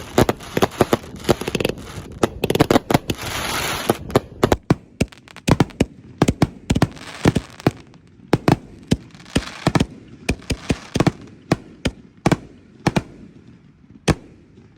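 Fireworks going off in rapid succession: many sharp bangs with crackling in between, thick at first and thinning out toward the end.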